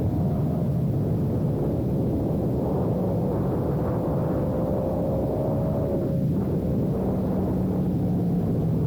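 Sportbike engine running under way over a dense low rumble. Its pitch climbs slowly, breaks off briefly about six seconds in, as at a gear change, then holds steady lower.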